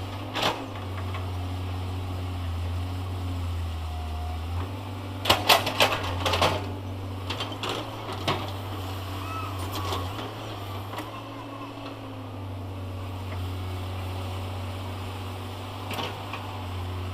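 Heavy diesel engine running steadily, with sharp knocks and clatters over it, loudest in a cluster about five to six and a half seconds in.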